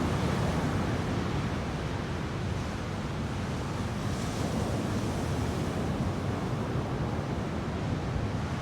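Steady wash of ocean surf from typhoon swell, with a low rumble of wind on the microphone.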